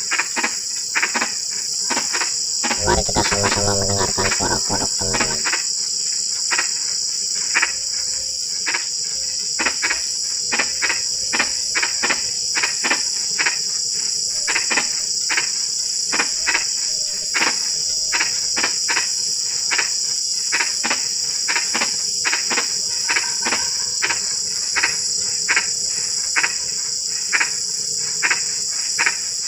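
Frogs calling after rain, short repeated croaks about two a second, over a steady high-pitched chorus of crickets.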